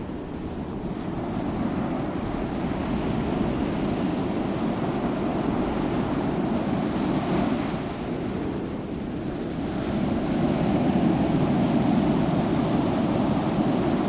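Sea waves breaking on the shore: a continuous rushing wash of surf that rises and falls, swelling again about two-thirds of the way in.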